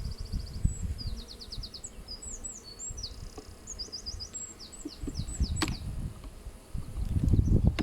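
Honeybees buzzing around an opened hive, with a small bird singing rapid trills and chirps over them. A louder low rumble comes near the end.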